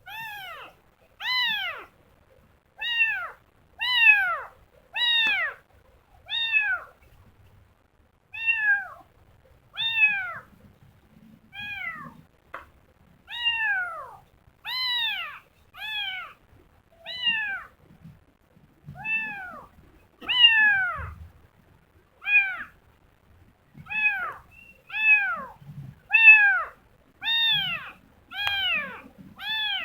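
A kitten meowing over and over, more than twenty short meows about a second apart, each rising then falling in pitch.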